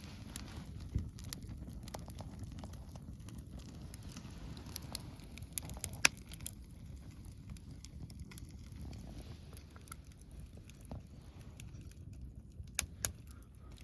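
Wood campfire crackling: scattered sharp pops, a loud one about six seconds in and two close together near the end, over a low steady rumble.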